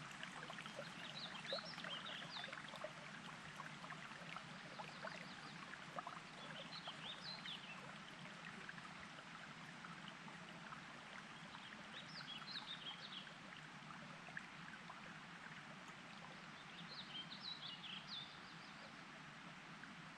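Water trickling and burbling steadily, with a small songbird repeating the same short, high twittering phrase four times, about every five seconds.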